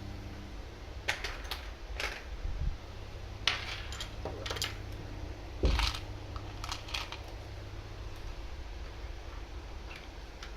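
Irregular light clicks and metallic clinks of small model parts and tools being handled on a work surface, a dozen or so spaced unevenly, over a steady low hum.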